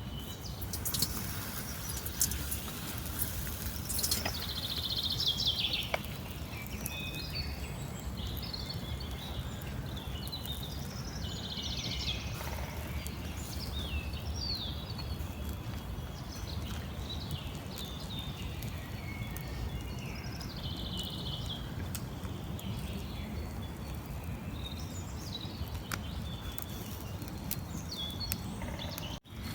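Several small birds chirping and trilling in short calls throughout, over a steady low rumble, with a few sharp clicks in the first few seconds.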